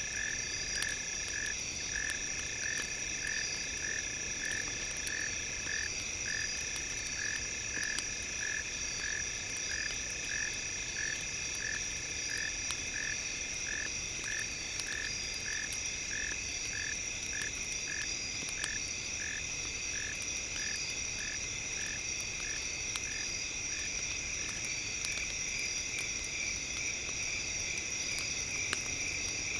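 A frog calling in a regular series of short croaks, about one and a half a second, that fade out near the end. Under it are steady high-pitched ringing tones and the light crackle of a campfire.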